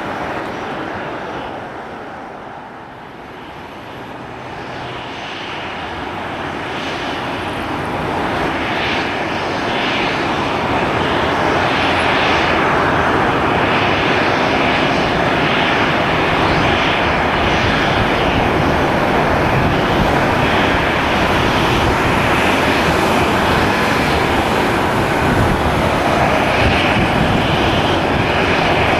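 Airliner engines growing steadily louder over about ten seconds, then holding a loud, steady roar as the plane passes close.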